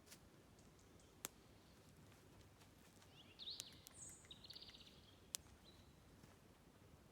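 Faint outdoor ambience with a small bird giving a brief chirping call that runs into a quick trill a little past halfway. Two sharp clicks fall about a second in and again near the end.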